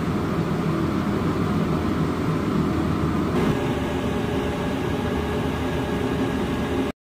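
Steady drone of a ship's engine mixed with a constant rushing noise, with a slight change in character about halfway through; it cuts off abruptly near the end.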